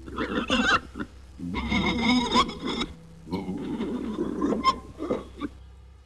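Wild pigs grunting and calling in three rough bouts of one to two seconds each, the middle one with a higher, squeal-like pitch.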